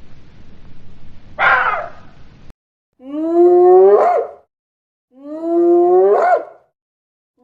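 Animal calls: a short rough call over a noisy background, then, after an abrupt cut, two identical calls about a second and a half long, each holding a steady pitch and then rising sharply at the end.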